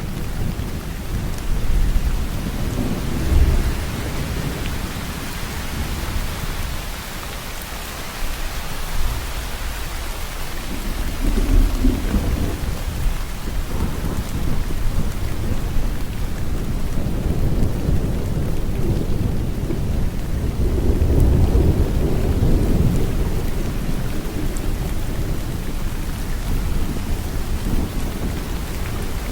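Steady rain falling, with low rolling thunder that swells a few times: near the start, about a third of the way in, and for a longer stretch just after the middle.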